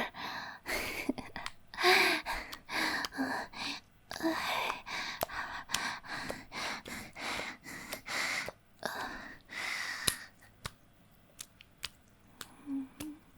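A woman's heavy breathing: quick breathy gasps and pants with a few short whimpers. It tapers off about ten seconds in to quiet breaths and a few soft clicks.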